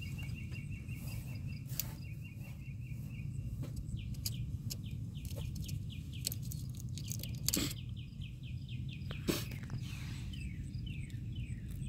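Small birds chirping: many quick, falling chirps and a short fast trill at the start, over a steady low background rumble. Two sharp clicks come a little past halfway.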